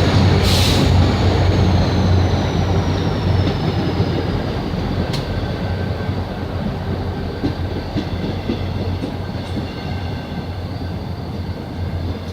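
Seohae Geumbit G-train, hauled by 7300-series locomotive 7329, pulling out and rolling by with a steady low drone and rail clatter. A brief hiss comes about half a second in, and a high whine sinks in pitch over the first few seconds. The train grows gradually quieter as it moves away.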